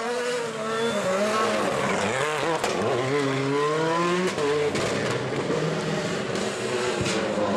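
Rally car engine revving hard, its pitch repeatedly climbing and dropping as it brakes and shifts for a corner, with a few sharp cracks.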